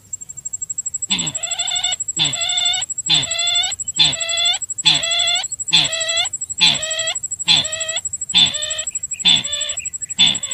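Sintar bird lure call played back: the same call repeated about once a second, eleven times, each with a falling low note. A steady high electronic whine runs beneath it.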